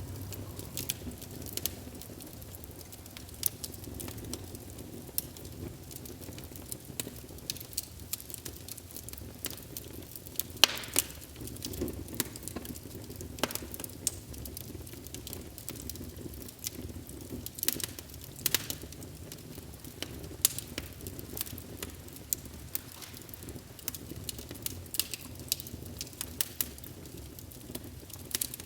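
Wood fire burning in a fireplace: a steady low rumble with irregular crackles and sharp pops, one louder pop about ten seconds in.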